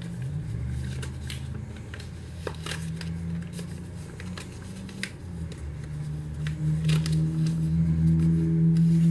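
Sheet of paper being creased and handled while folding a paper airplane: scattered short crinkles and clicks, over a steady low hum that grows louder near the end.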